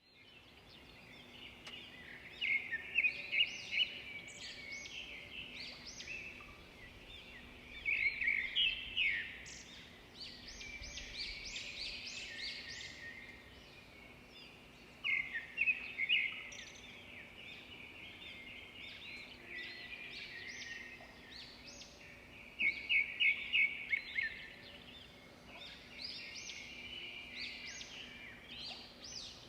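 Small birds singing, in bursts of quick repeated chirping notes every several seconds, over a faint steady hum.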